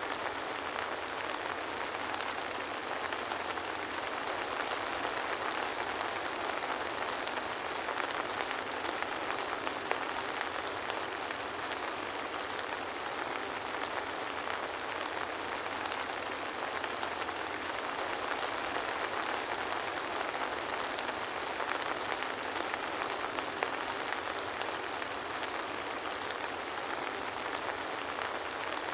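Steady soft rain falling, a continuous even hiss with many small drop ticks and no thunder.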